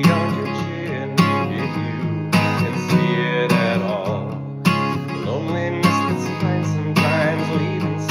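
Acoustic guitar with a capo at the fourth fret, strummed in a steady rhythm, with an accented strum about every 1.2 seconds.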